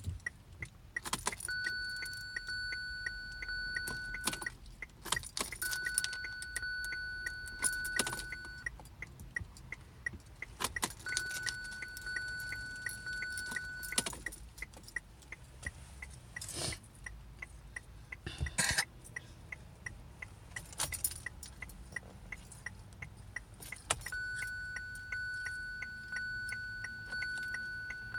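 Car keys jangling in short bursts, as on a 2017 Kia Sorento that won't start, with no engine cranking. Between the bursts a steady electronic warning tone sounds for about three seconds at a time, five times over, and a fast even ticking runs underneath.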